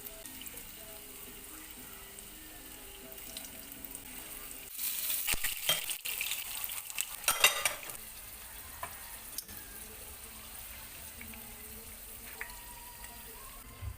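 Sliced vegetables frying in hot oil in a pan, with a steady sizzle. For about three seconds, starting some five seconds in, the sizzle grows louder and crackles as the pieces are stirred and turned.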